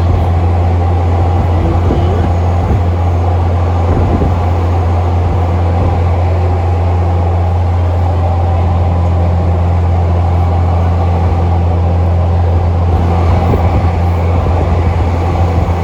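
A large engine running steadily at idle, a loud deep drone that holds an even pitch and level throughout.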